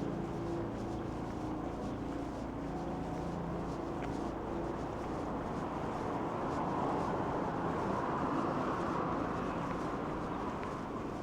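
City street ambience at night: a steady low engine hum, then a rushing noise that swells and fades about six to ten seconds in, like a vehicle passing.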